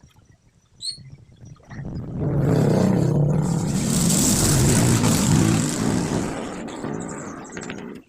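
A motor vehicle passing close by, its engine swelling up, holding, then fading before the sound cuts off abruptly.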